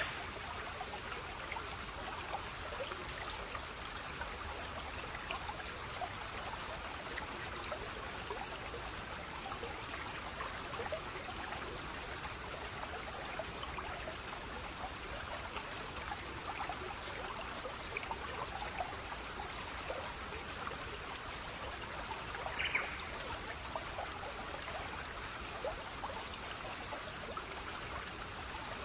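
Water flowing in a small stream, a steady trickling and babbling. One brief high chirp about two-thirds of the way in.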